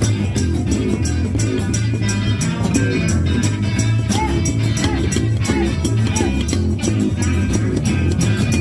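Rockabilly band playing live, with a walking upright bass line, guitar and a steady beat.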